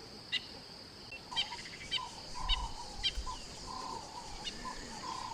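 Wild outdoor soundscape: a steady high insect drone with birds chirping over it in short, sharp calls that repeat about every half second.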